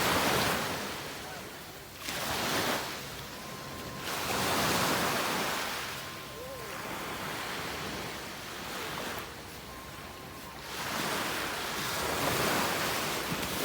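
Sea waves breaking and washing up on a beach, the surf swelling and fading again every few seconds.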